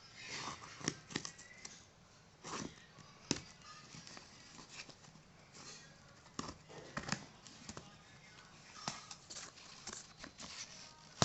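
Irregular clicks, taps and rustles of a boxed phone and its packaging being handled and opened, a dozen or so sharp taps spread unevenly with soft rustling between them.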